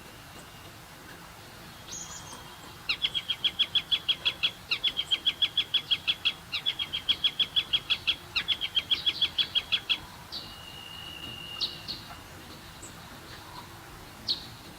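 A bird calling in four runs of rapid, evenly spaced high notes, about ten a second, then a short held whistle and a few scattered chirps.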